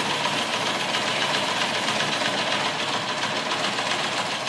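A sewing machine running steadily, its needle mechanism making a fast, even clatter.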